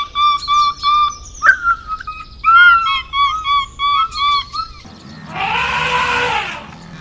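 Animal calls: a quick series of short, high chirping notes, about three or four a second, then a single longer, harsher call about five seconds in.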